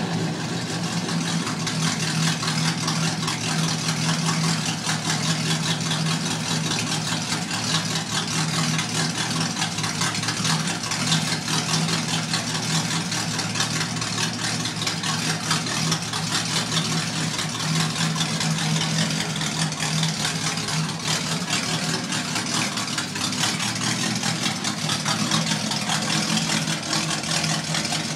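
1975 Chevrolet Corvette C3's carburetted 350 small-block V8 idling steadily with a low, even burble.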